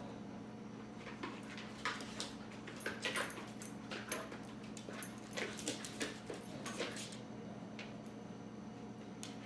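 Two dogs playing together: a run of short scuffles and clicks for several seconds, then settling, over a steady electrical hum.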